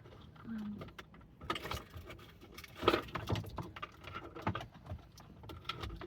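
Rustling and light clicks of small objects being handled as a throat lozenge packet is fished out, with a sharper knock about three seconds in.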